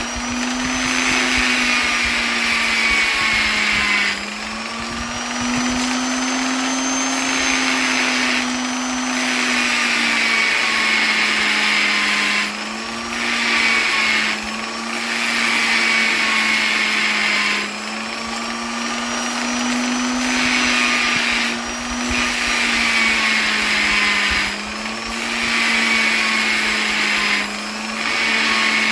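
Electric polisher motor running continuously with a steady hum and a high whine, its pitch wavering slightly; the level dips and comes back every few seconds.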